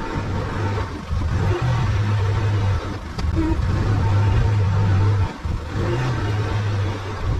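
Arctic Cat side-by-side UTV's engine running steadily, with a strong low hum and brief dips in loudness.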